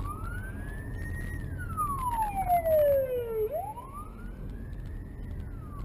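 A siren wailing: one tone rising quickly and falling slowly, twice, over the low rumble of car engine and road noise.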